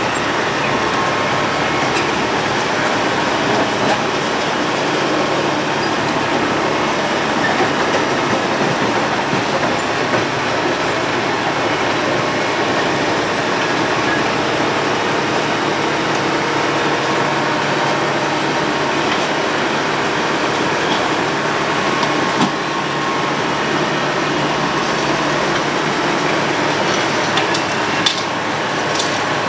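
Road planer (cold milling machine) milling the asphalt road surface: a loud, steady grinding roar with a couple of brief knocks, about 22 seconds in and near the end.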